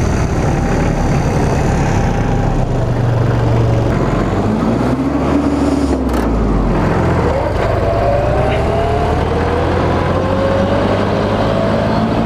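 Farm tractor's engine running under load as the tractor pulls away in seventh gear, steady and low, with a whine that slowly rises in pitch over the second half as it gathers speed.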